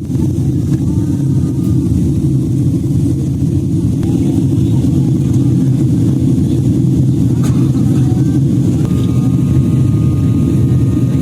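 Steady, loud cabin rumble inside a Boeing 767-300 airliner during its landing approach. A thin steady high tone comes in about nine seconds in.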